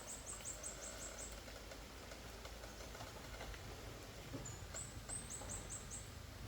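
A small bird chirping: quick runs of high, short chirps, about six at the start and another run near the end, over a steady low rumble.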